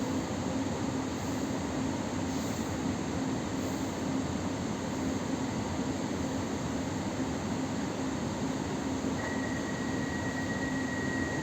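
Steady hum of a commuter electric train standing at a station, its ventilation and onboard equipment running with a low drone. About nine seconds in, a steady high-pitched tone starts and keeps sounding.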